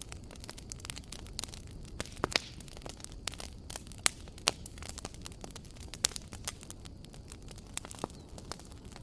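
Wood fire in a fireplace crackling, with irregular sharp pops and snaps over a low steady rumble of burning; the loudest pops come around two, four and six seconds in.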